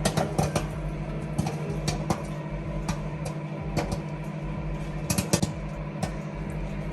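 American Garden butter popcorn kernels popping inside a fully puffed microwave popcorn bag: scattered, irregular sharp pops over the steady hum of the microwave oven running on high.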